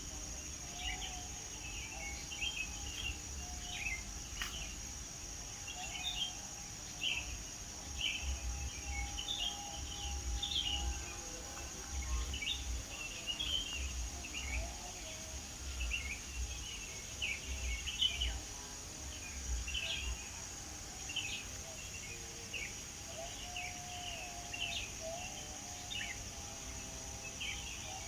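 Wild birds chirping in the morning: a dense run of short, quick chirps, a couple each second, over a steady high insect drone. A low rumble comes and goes underneath.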